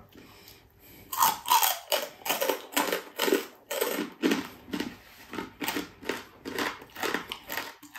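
Crunching as a person chews crispy deep-fried boneless chicken-feet chicharon, a quick run of crunches about three a second, starting about a second in.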